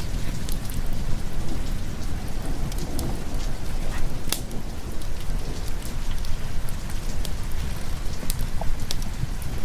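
Steady heavy rain, with a constant deep low rumble under it and scattered sharp ticks of drops.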